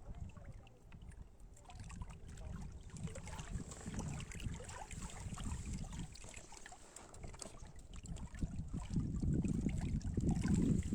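Wind buffeting the microphone as a low, uneven rumble, growing louder near the end, with a few faint small clicks.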